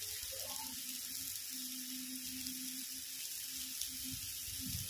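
Chopped ridge gourd frying in oil in an open pan, sizzling steadily.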